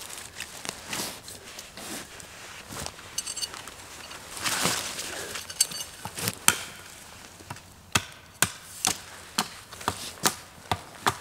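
Wood being chopped: a series of sharp chopping blows, the loudest about six seconds in, then coming steadily at about two a second over the last few seconds.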